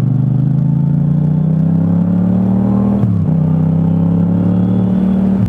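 Motorcycle engine pulling under acceleration, its pitch rising slowly, then dropping sharply about three seconds in at a gear change and running steady after.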